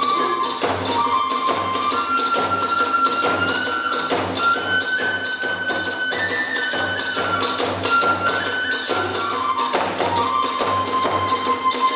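Kagura hayashi accompaniment: a transverse bamboo flute holds a slow melody that steps up and then back down, over steady drum beats at about two a second and the wash of small hand cymbals.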